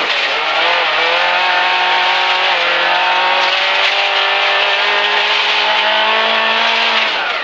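Suzuki Swift 1300 rally car's engine heard from inside the cabin, running hard on a gravel stage, with gravel noise from the tyres underneath. The pitch drops at a gear change about two and a half seconds in, climbs slowly as the car accelerates, then falls away near the end.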